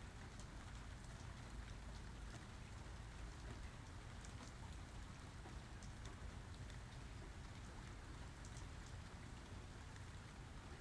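Steady rain falling, with scattered ticks of individual drops over a low, even rumble.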